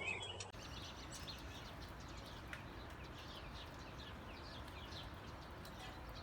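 Faint bird chirping: many short, high chirps repeating over a quiet, steady background hiss.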